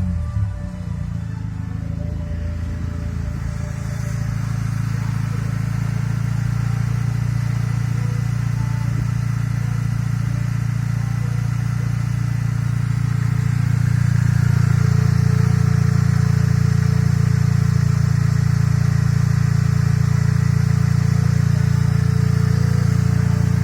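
An engine running at a steady speed on test, a little louder from about fourteen seconds in.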